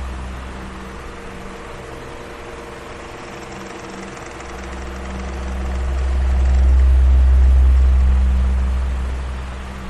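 Electric fan running steadily: a constant rushing of air with a faint motor hum, under a low rumble that fades early on and swells back up to a peak near the end.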